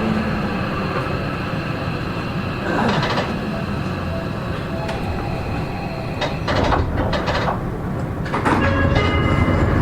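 Seibu 40000 series electric train standing still, heard from inside the car: a steady rumbling hum, with short bursts of voices and other noise about three seconds in and again from about six seconds on.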